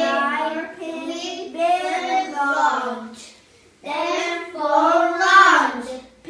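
A child singing, two sung phrases with a short pause between them just past the halfway point.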